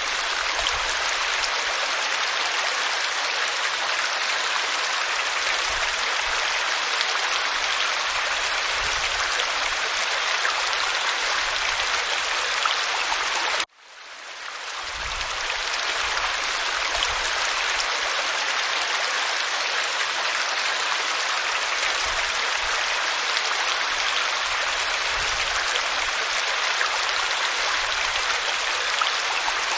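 Waterfall splashing over rock, a steady even rush of falling water. About halfway through it cuts out for an instant and fades back in.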